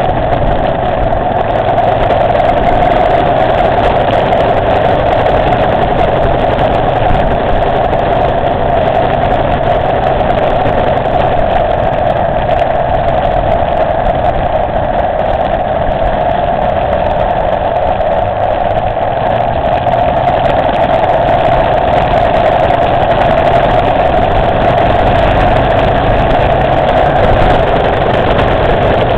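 Motorcycle engine running at a steady speed while riding, with no revving or gear changes standing out.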